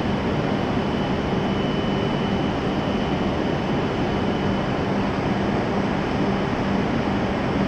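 Steady hum and whir of a Shinkansen train standing at the platform, from its on-board equipment running while stopped, with a faint steady high-pitched whine.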